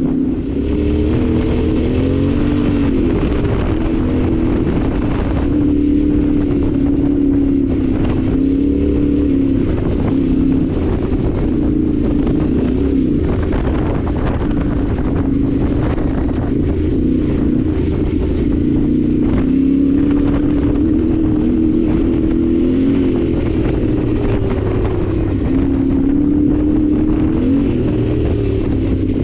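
Yamaha Ténéré 700's parallel-twin engine running while the bike is ridden, its pitch rising and falling gently with throttle changes, with wind noise on the microphone.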